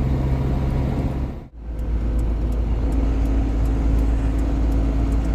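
GAZon Next truck's diesel engine and road noise heard from inside the cab while driving, a steady drone with a deep rumble. The sound drops out briefly about a second and a half in and comes back heavier. Faint ticking from the hazard-light relay runs under it.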